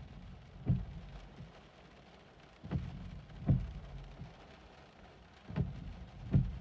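Car driving through floodwater, heard from inside the cabin: a steady low rumble with five dull thumps at irregular intervals.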